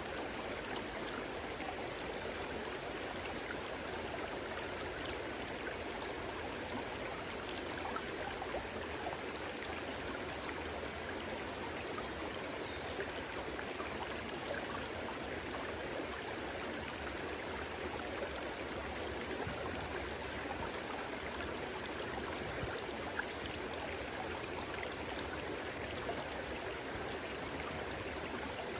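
A stream of water running and babbling, a steady rush with small splashes and gurgles.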